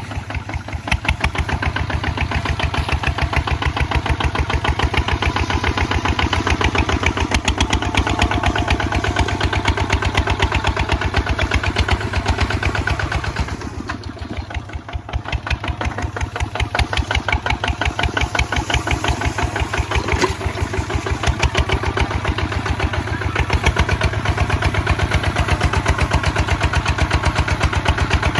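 Kubota ZT155 single-cylinder diesel engine of a two-wheel tractor running under load while plowing, a steady rapid beat of firing strokes. About halfway through its note drops and quietens for a couple of seconds, then picks back up.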